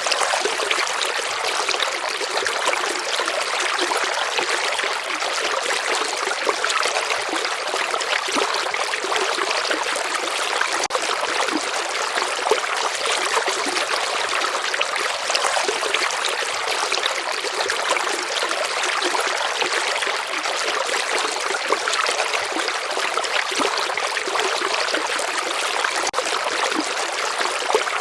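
A stream of water flowing steadily, a continuous hiss of running water with fine splashing and trickling and little low rumble.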